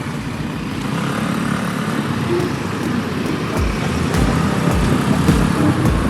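Motorcycle riding along a road with steady road and traffic noise, with low irregular thumps in the last few seconds.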